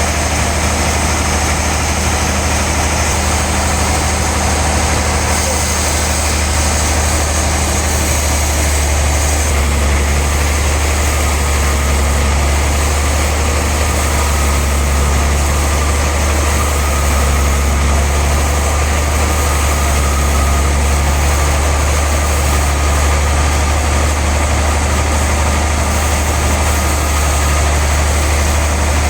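Sawmill machinery running steadily: a loud, constant low engine hum with a hiss above it. A faint thin whine joins about halfway through.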